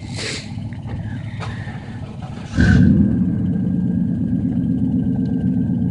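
Chevy small-block V8 pickup exhaust running. About two and a half seconds in, the sound jumps sharply louder into a steady, deep rumble that holds.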